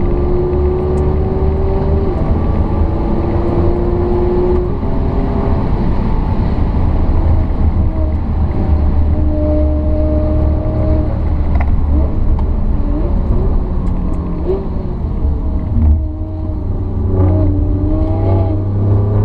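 Alfa Romeo Giulia Quadrifoglio's twin-turbo V6 heard from inside the cabin, driven hard on track. The engine pitch climbs under acceleration and falls sharply at each upshift, twice in the first few seconds. Later come short rev blips and a brief dip in level as the car slows, before it pulls hard again near the end.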